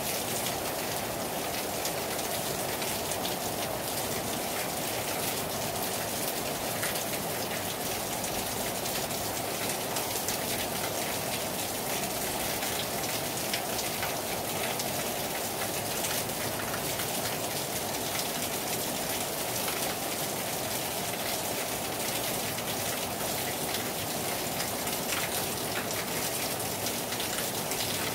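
Heavy rain falling hard on a terrace: a steady, dense hiss of drops hitting the surface, with countless small individual drop ticks.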